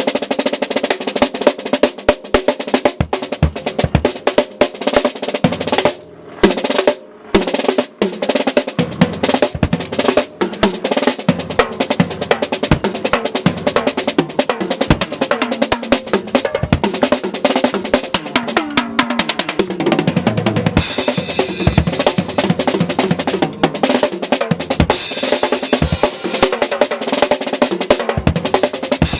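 Acoustic drum kit played hard outdoors: fast snare rolls and fills over kick drum, breaking off twice for a moment about six and seven seconds in, with cymbals ringing out more in the second half.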